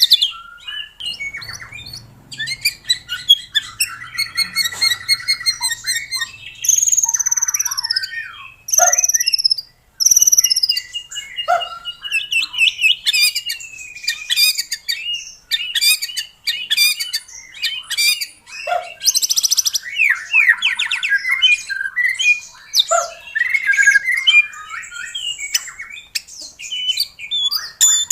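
White-rumped shama singing a fast, varied song of clear whistles, rapid chattering trills and sharp downward-sweeping notes, broken by short pauses.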